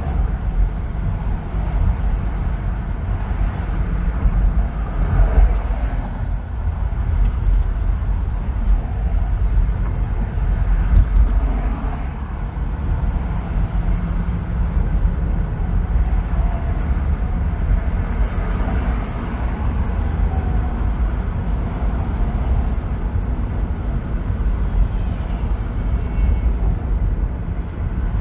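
Car driving on a freeway: a steady low road rumble, with faint whines that rise and fall in pitch now and then.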